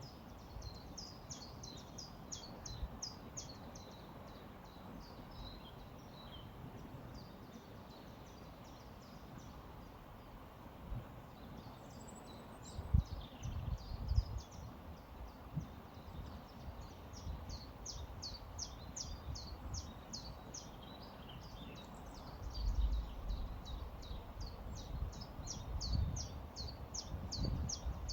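Small songbirds singing in phrases of rapid, high, repeated chirping notes, over a steady low rumble that swells in a few gusts about halfway through and near the end.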